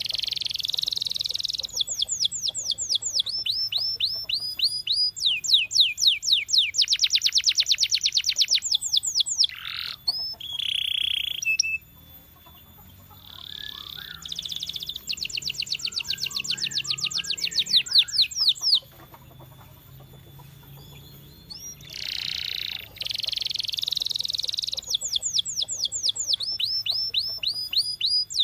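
Male canary singing: phrases of fast, high-pitched trills, runs of rapidly repeated notes, separated by short pauses.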